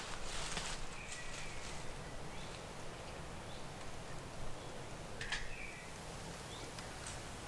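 Quiet woodland ambience with two short bird chirps, one about a second in and another about five seconds in.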